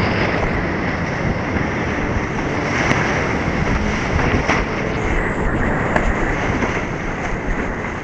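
Steady rush of whitewater on the flood-stage Potomac River, with a few brief splashes.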